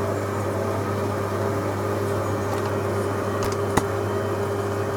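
Hoover Logic 1300 washing machine on its spin cycle, running at a steady high speed with an even motor hum and drum whine. There is a single sharp click about four seconds in.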